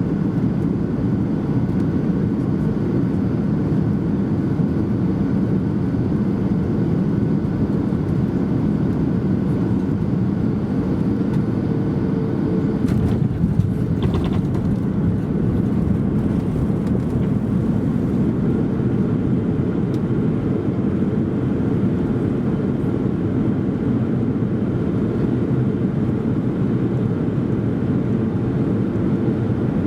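Cabin noise inside a Ryanair Boeing 737-800 on the approach to land: the steady low rumble of its CFM56 engines and the airflow, with a brief brighter noise about fourteen seconds in.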